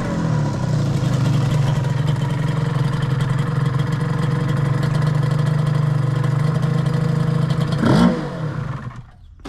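Suzuki RGV Gamma 250's two-stroke V-twin running through a Sugaya street expansion-chamber exhaust. The pitch settles down just after the start and then holds steady. Near the end there is a short rev up and back down, after which the sound drops away sharply. The title presents this swapped-in engine as running with no abnormal noise.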